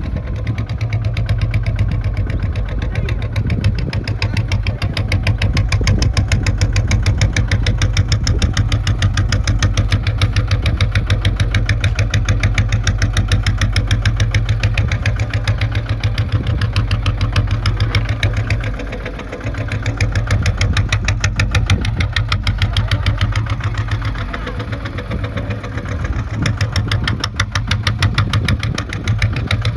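Kubota ZT 155 single-cylinder diesel tractor engine running steadily with a rapid, even pulse of firing strokes. Its level dips briefly about two-thirds of the way through.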